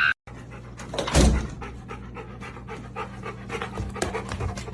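A dog panting rapidly in quick, even breaths, with a loud thump about a second in.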